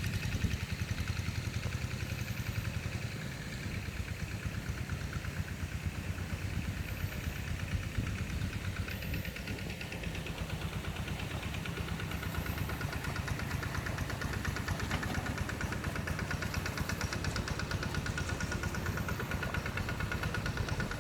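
The engine of a rice-field plowing machine running steadily, with a fast, even firing pulse.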